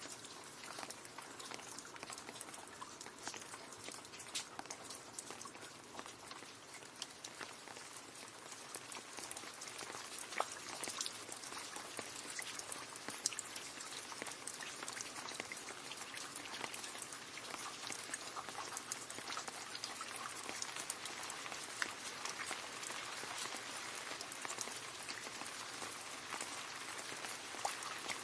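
Rain falling and splashing into a puddle: a steady patter of many small drop splashes, with scattered louder individual drops.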